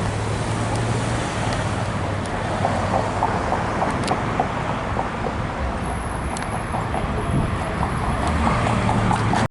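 Steady road traffic noise on a city street, with vehicles running close by and a constant low hum from their engines.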